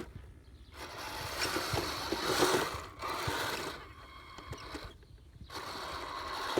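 Snow groomer working on sand: a rushing, grinding noise that swells and drops away three times, with quieter gaps between.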